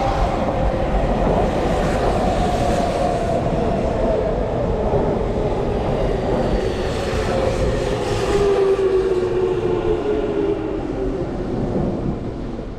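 Electric commuter train pulling into the station platform and braking, its motor whine falling slowly in pitch over the rumble of the wheels, easing off near the end.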